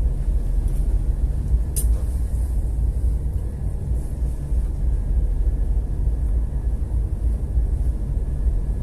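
Steady low rumble aboard a ship in heavy weather, with one short sharp click about two seconds in.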